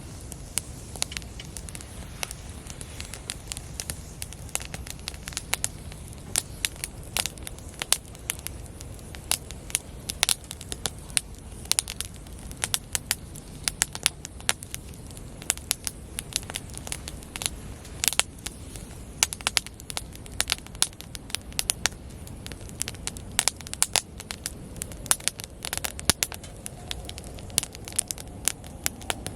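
Wood campfire crackling, with frequent irregular pops and snaps over a low steady background.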